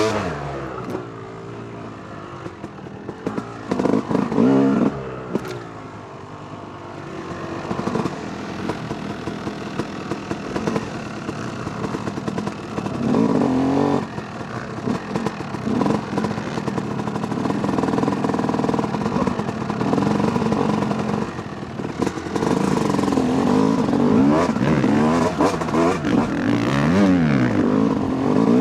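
2008 Yamaha YZ250 two-stroke dirt bike engine revving up and down as it is ridden off-road, the revs rising and falling over and over. It is quieter for the first several seconds and runs louder and harder through the second half.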